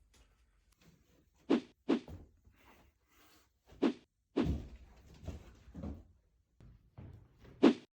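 About six sharp knocks at irregular intervals, each dying away quickly, with near quiet between them.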